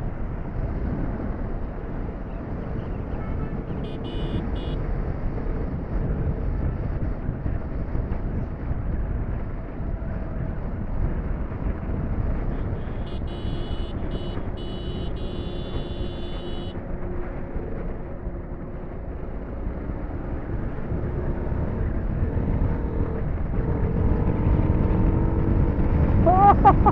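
TVS Apache 310's single-cylinder engine running at speed under its rider, with heavy wind rush on the microphone. The sound grows louder toward the end. A short high-pitched tone sounds about four seconds in, and a longer one midway.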